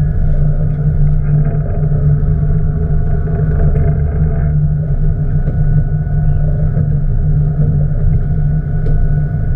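Boat engine running steadily, a low continuous drone heard from on board.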